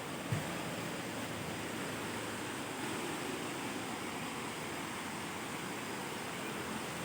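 Waterfall rushing, a steady even roar of falling water, with a brief low thump about a third of a second in.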